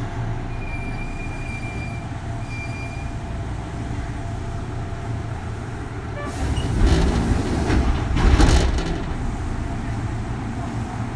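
Running sound inside a Kintetsu 3200 series motor car fitted with an early Mitsubishi GTO-thyristor VVVF inverter: a steady rumble of wheels and traction motors, with a faint high steady tone during the first three seconds. About seven to nine seconds in, a louder surge of noise rises and falls.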